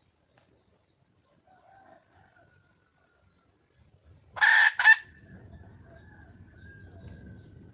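Red junglefowl giving a loud, harsh two-part call about four seconds in: a squawk of about half a second, then a shorter one. Faint thin high tones come before and after it, with a low rumble after the call.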